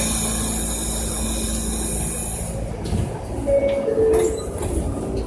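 R68 subway train with a high, steady whine and hiss that stops about two and a half seconds in. About a second later a two-note falling chime sounds.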